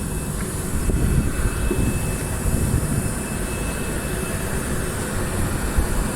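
Low, steady rumble of a car heard from inside its cabin, with engine and road noise but no distinct knocks or tones.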